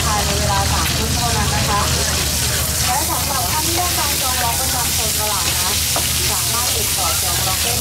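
Food sizzling steadily in hot oil on a street-food stall, with a few sharp clicks of a metal utensil against the pan.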